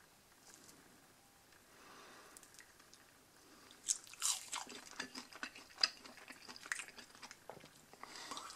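A person chewing a bite of breaded chicken nugget: after a quiet start, irregular crunching and mouth clicks begin about four seconds in.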